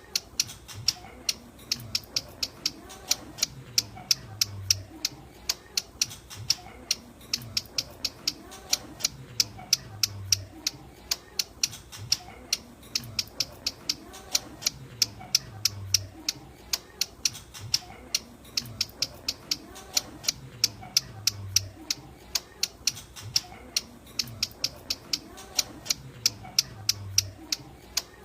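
Ciblek gunung, a prinia, giving its call as a fast, steady series of sharp, high ticks, several a second.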